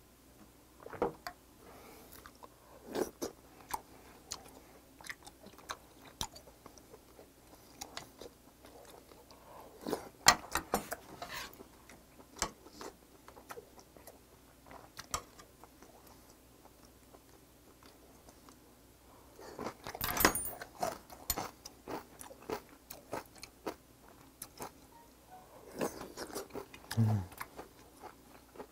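A person chewing and biting food close to the microphone, with scattered sharp clicks and louder bursts about 10 and 20 seconds in. A brief low hum near the end.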